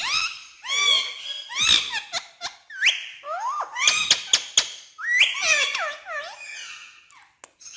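Pet parrot calling and whistling: a run of short, high, sliding calls and chatter, mixed with a few sharp clicks, trailing off near the end.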